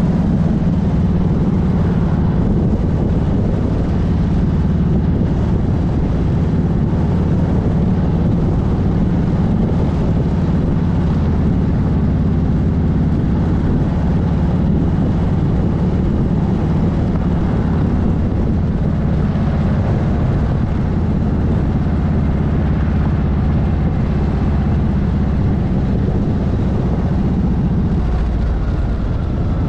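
Motorcycle engine running at a steady cruising speed, a constant low drone with road and wind noise over it, unchanged throughout.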